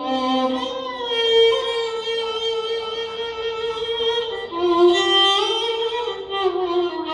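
Violin-led instrumental music with long held notes in a slow melody, playing as accompaniment for a ballet dance.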